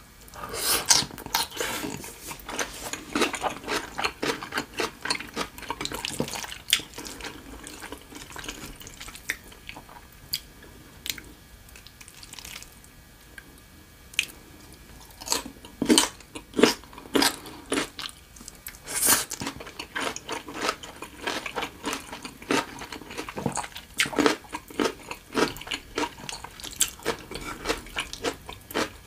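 Close-miked, wet chewing and lip-smacking of a mouthful of pad see ew: soft wide rice noodles and Chinese broccoli. There are many irregular smacks and squelches, quieter for several seconds in the middle and busier again in the second half.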